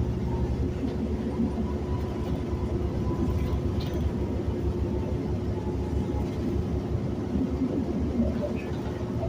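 Inside a city bus: steady engine and road rumble, with a constant low hum.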